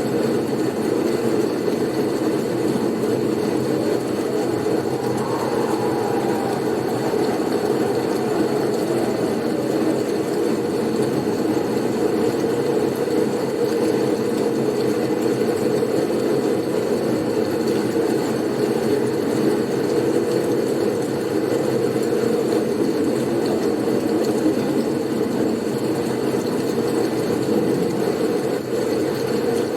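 Blizzard wind soundscape: a steady, dense rushing noise without let-up, with a faint thin high tone running through it.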